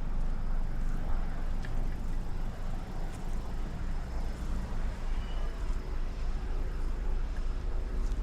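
Ocean surf washing along a sandy shore, a steady noisy wash with a strong low rumble.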